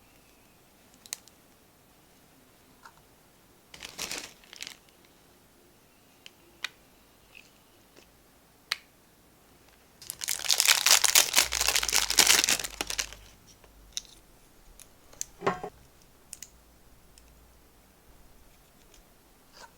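Crinkling and rustling of handled packaging, with scattered small clicks and knocks. About ten seconds in there are three seconds of loud, dense crinkling.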